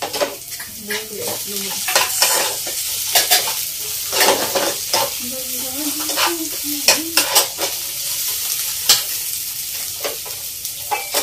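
Chopped onions sizzling as they fry in oil in a non-stick kadai, with a steel spatula scraping and knocking against the pan again and again as they are stirred.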